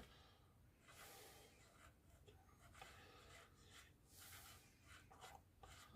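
Near silence: only faint, scattered rustles and light clicks.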